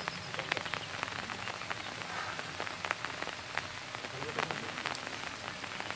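Rain pattering on a surface: a steady hiss with many small, irregular drop ticks.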